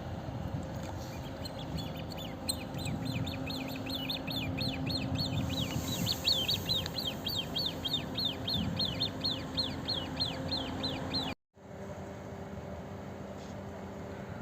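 A songbird calling a long, even series of short, high, falling whistled notes, about four a second, that stops abruptly at a cut about eleven seconds in.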